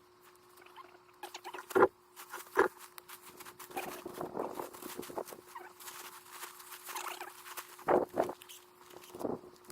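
Rustling, scraping and knocks of gear being handled and stuffed into a backpack, with a few sharp knocks about two seconds in and again near the end.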